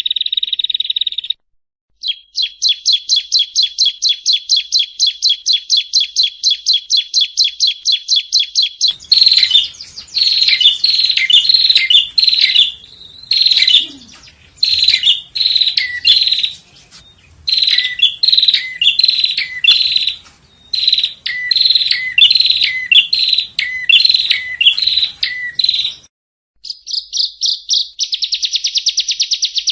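Yellow-bellied prinia (prenjak rowo) singing, in spliced runs that stop and start abruptly. A fast trill and then a steady run of quick high notes, about five a second, give way to louder repeated phrases whose notes sweep downward, and near the end a fast buzzy trill.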